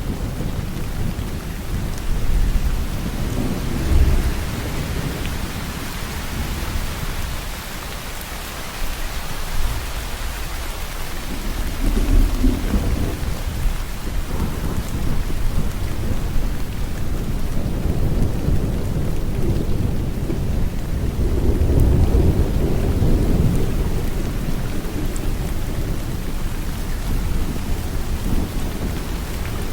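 Steady rain with low thunder rumbling in the background, swelling a few times: briefly about 4 and 12 seconds in, and for a longer stretch near the middle to later part.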